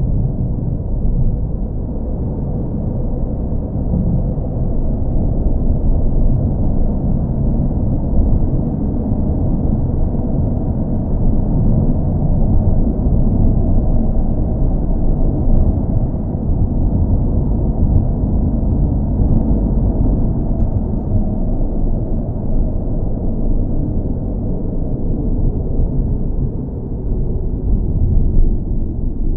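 Steady low rumble of a car engine and road noise, as heard from a moving car, with no change in pitch or speed.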